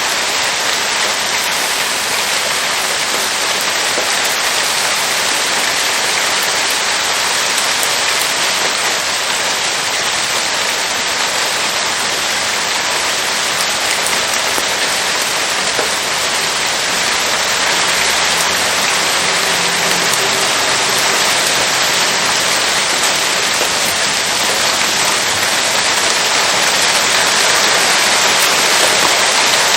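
Steady rain falling, a dense even hiss of drops, getting a little louder near the end.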